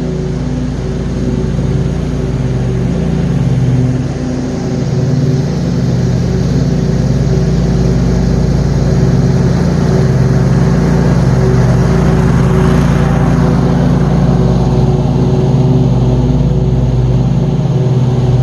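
John Deere QuikTrak 652R stand-on mower engine running steadily at mowing speed, with a wide haze of blade and deck noise over it.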